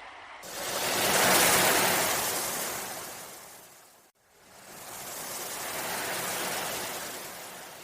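Ocean waves breaking and washing: two surges of surf, each swelling and then fading, the first breaking off abruptly about four seconds in.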